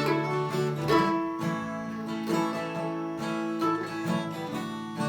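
Acoustic guitar strumming in an instrumental passage of a country-folk song, with no singing.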